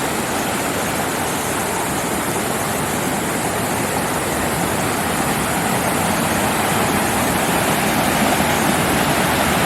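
Steady rush of a creek's falls pouring over rock ledges, growing slightly louder near the end.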